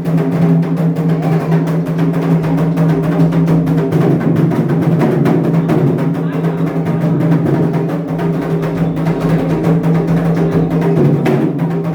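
Candomblé atabaque hand drums playing a fast, continuous rhythm for the orixá Ayrá, with dense rapid strokes over a steady low ringing tone.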